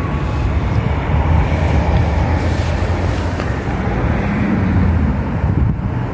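Railway train passing with a steady low rumble.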